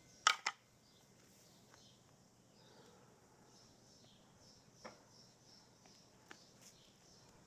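Two sharp clicks in quick succession near the start, then faint outdoor chirping with a couple of small ticks.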